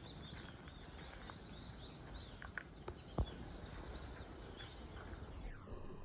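Small birds chirping, many short high calls over a low steady outdoor background noise. A single sharp knock a little past halfway is the loudest moment.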